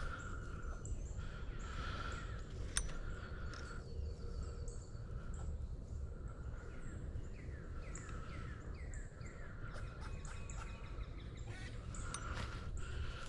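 Woodland birds calling and singing: many short chirps and whistles, with a lower call repeating every second or so, over a steady low rumble of wind on the microphone. A single sharp click just under three seconds in.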